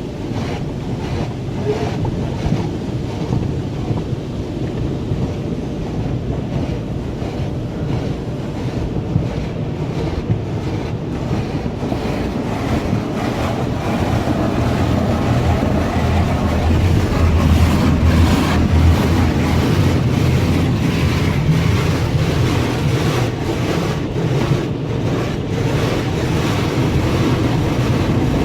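Belanger soft-cloth automatic car wash working over a minivan, heard from inside the cabin: a steady rush of spraying water and cloth washers with a deep rumble, growing louder about halfway through.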